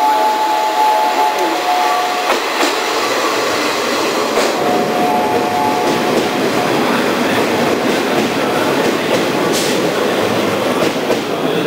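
Train running through the station, its wheels clattering over the rail joints with scattered sharp clacks.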